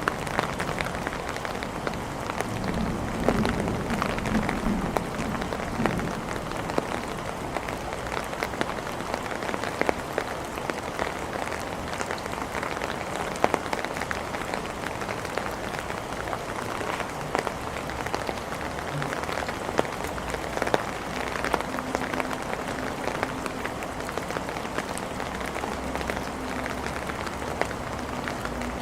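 Steady rain falling on hard surfaces, with many individual drops ticking sharply over the even hiss.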